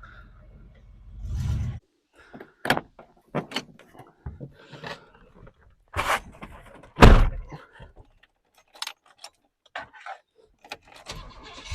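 A pickup's 5-litre Vortec V8 rumbles, building over a second or two, then cuts off sharply. A string of sharp metallic clanks, knocks and rattles follows, the loudest about seven seconds in, before the engine rumble returns near the end; these are typical of the lifted truck's body and suspension striking rock while it crawls over it.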